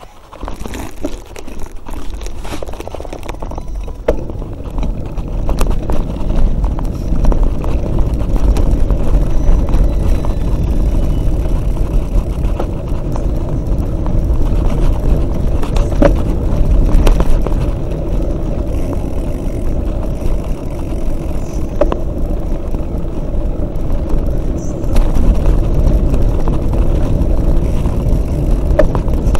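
Mountain bike on the move: a steady low rumble of riding noise and wind on the microphone, with a few sharp knocks and rattles.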